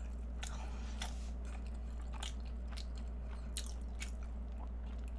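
Close-up chewing of a custard egg tart with flaky pastry: irregular soft mouth clicks and smacks, about two or three a second, over a steady low hum.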